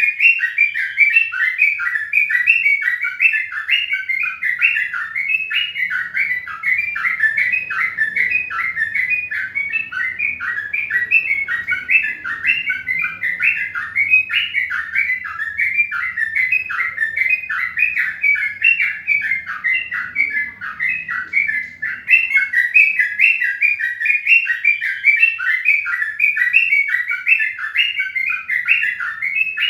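Birds chirping rapidly and without pause, a dense stream of short high chirps several times a second.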